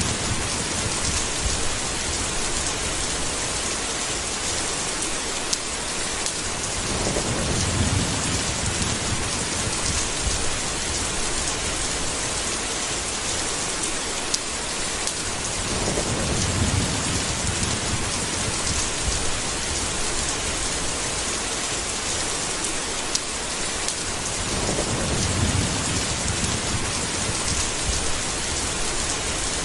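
A steady, heavy rainstorm hissing evenly, with a low rumble of thunder swelling and fading three times, about nine seconds apart.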